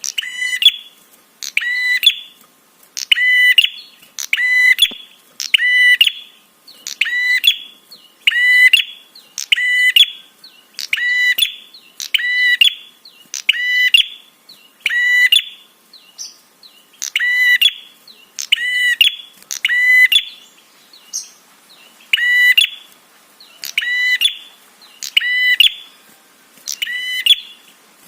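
Prenjak (prinia) call repeated over and over, a sharp, piercing chirp a little under once a second with the same shape every time, broken by a few short pauses. It is a looped recording used as a 'trapi' lure sound to set off a prenjak's response.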